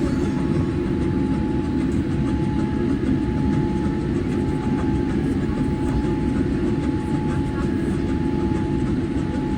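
Steady low rumble of an airliner cabin inside a Boeing 787-8, with a faint steady whine above it.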